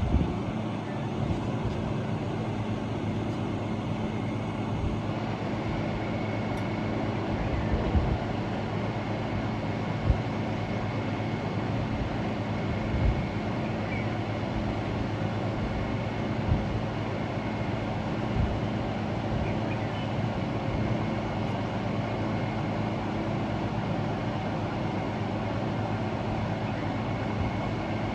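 Steady mechanical hum, like a running vehicle, with a few short knocks scattered through it.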